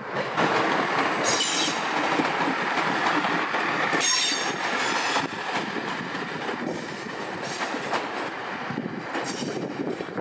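A Chiltern Railways train moving through the station, with steady rail and running noise and its wheels squealing in three short bouts, the longest and loudest about four seconds in.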